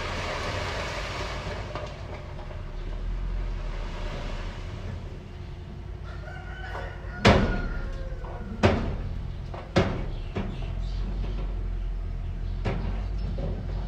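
A rooster crowing over a steady low engine rumble, with three sharp knocks or clanks a little over a second apart near the middle.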